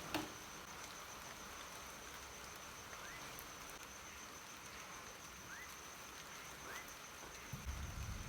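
An insect, cricket-like, calling steadily on one high pitch over a soft steady hiss of rain, with a few short rising chirps in the middle. A low rumble begins near the end.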